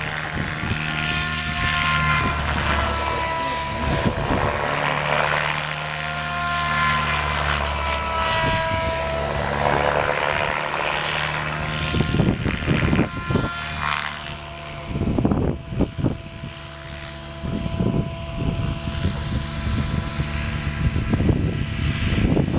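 Radio-controlled model aircraft in flight, its motor pitch rising and falling in waves as it passes and manoeuvres, over a steady high whine. Wind buffets the microphone in gusts, most strongly in the second half.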